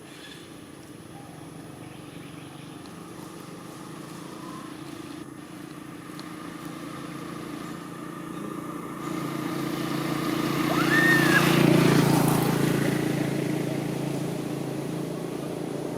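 A motor vehicle approaching and passing close by: its engine hum grows steadily louder, is loudest about twelve seconds in, then fades.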